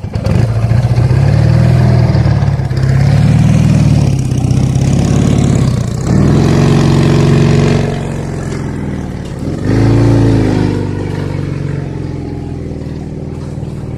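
Ural motorcycle's flat-twin engine under way, its pitch rising and falling several times as it is revved and pulled through the gears, then easing to a steadier, lower running for the last few seconds.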